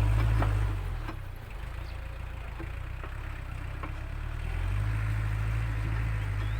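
ISEKI NT554 tractor's diesel engine running while it pushes soil to level the headland of a paddy field. The engine sound drops about a second in and swells again about five seconds in.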